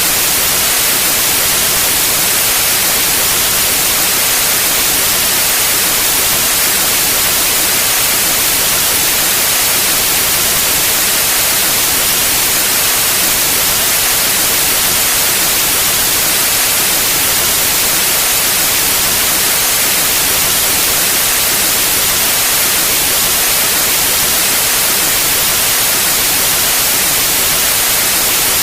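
Steady electronic white noise: an even hiss, strongest in the treble, with no change.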